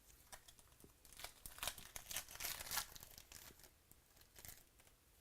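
Crinkling and tearing of a 2018 Donruss Optic baseball card pack wrapper as it is ripped open. The crackling comes in a cluster starting about a second in, is loudest just before the middle, and tails off with a few faint crinkles near the end.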